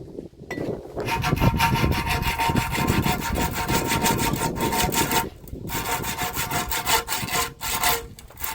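Power saw cutting, starting about a second in and running with a steady motor whine, with a brief pause a little after halfway and two short breaks near the end.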